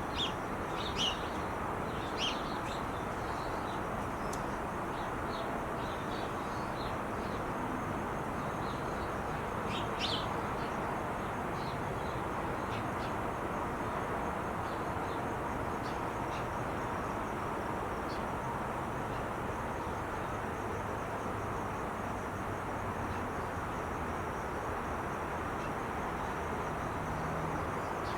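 Steady rush of freeway traffic from Interstate 5. A few short bird chirps come over it in the first couple of seconds and again about ten seconds in, and a faint high trill runs under it throughout.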